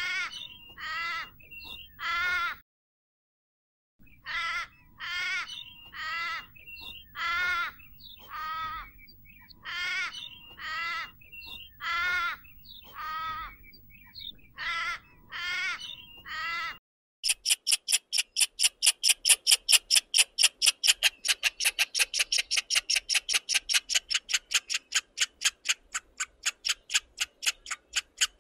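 A series of harsh, squawking animal calls, each about half a second long and coming about once a second. About 17 seconds in they give way to a rapid run of high chirps, about four a second: a gray squirrel's chattering call.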